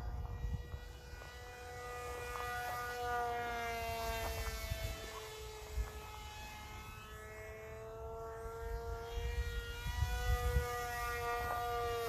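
Electric RC plane's small brushless motor (BR2403 2300kV) spinning a 6x4.5 propeller in flight at about 40% throttle: a steady high whine whose pitch wavers slightly, dipping in the middle and rising again. Wind gusts rumble on the microphone.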